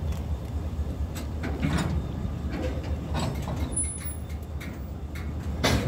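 Freight train boxcars giving scattered knocks and creaks over a steady low rumble, with a louder bang near the end.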